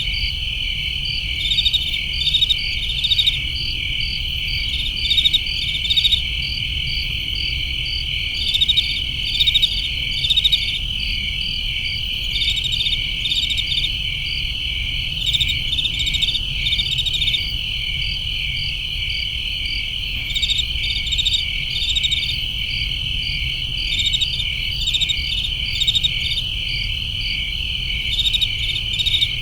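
Crickets chirping: a steady high trill, with runs of louder chirps every second or two, over a low steady rumble.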